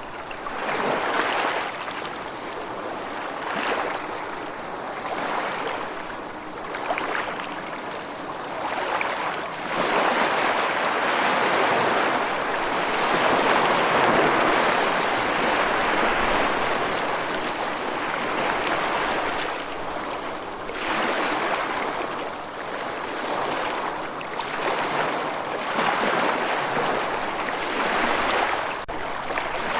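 Rushing water, a dense steady noise that swells and fades every second or two, louder for several seconds in the middle.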